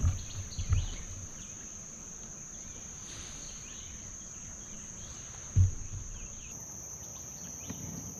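Insects buzzing steadily at one high pitch. A few dull low thumps come near the start, and one more about five and a half seconds in.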